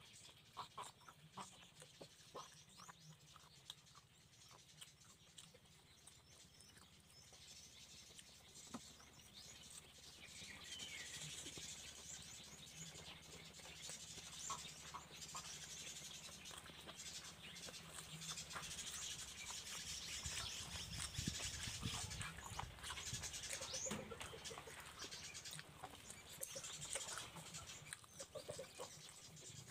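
Faint close-up eating sounds: chewing and lip-smacking with many small wet clicks, as rice and goat meat are eaten by hand.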